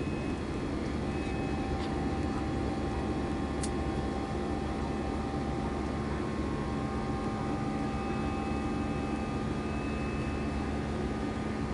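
Airbus A320-216 jet engines running steadily: an even drone with several steady whining tones held over it.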